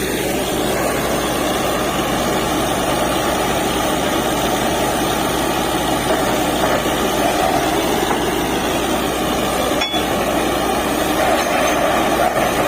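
DTH borewell drilling rig running steadily: the rig's diesel engine and air compressor driving the down-the-hole hammer as it drills.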